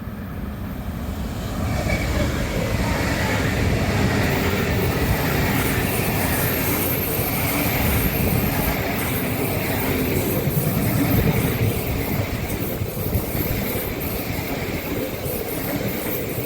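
A train running past on the tracks, the rumble and hiss of wheels on rail building up over the first two seconds and holding steady.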